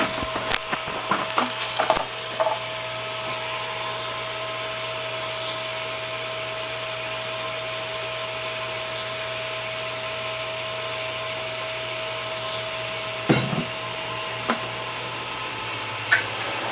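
A steady machine hum with a constant mid-pitched whine, with handling clicks and knocks in the first two seconds and a few single knocks near the end.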